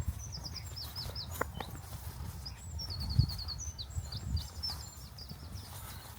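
A songbird singing quick runs of high chirps, with a fast trill of about six notes a little past halfway. Under it are low thuds from walking, the loudest about halfway.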